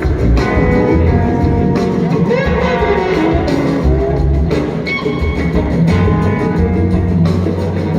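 Live rock band playing an instrumental passage, electric guitar to the fore over bass and drums, recorded from the audience.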